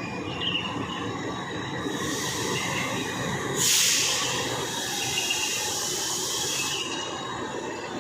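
Long-distance passenger train on the rails: a steady rolling rumble of wheels and cars, with a rushing hiss that swells about two seconds in, is loudest around four seconds and fades near seven.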